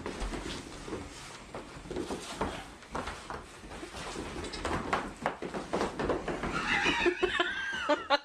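Goat kids playing and chasing, their hooves clattering with many short, irregular knocks. Near the end one kid gives a high, wavering bleat.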